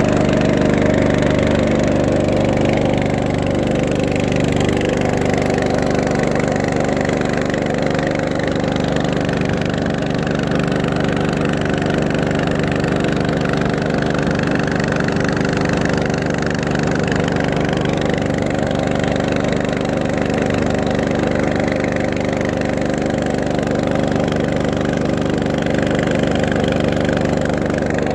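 Engine running steadily at an even speed, with a constant drone and no revving.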